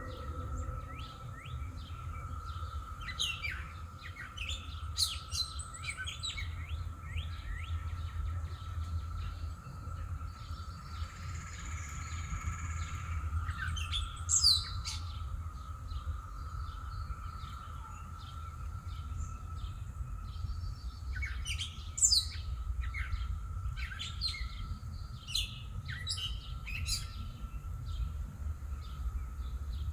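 Songbirds chirping and calling in short, sharp notes scattered throughout, with two louder chirps about halfway and two-thirds of the way through. Underneath are a steady faint high hum and a low background rumble.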